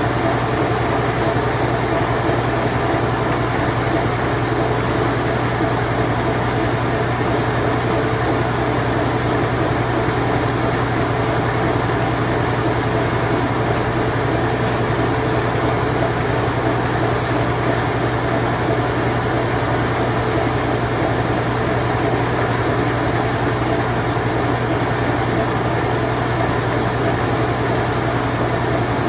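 Vintage Whirlpool Imperial Clean Touch washing machine running in its spin cycle: a steady low hum under an even whooshing noise, with no change in speed or level.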